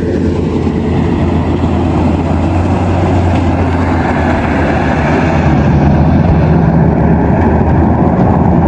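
Combine harvester running steadily while harvesting rice, its engine hum growing louder about halfway through.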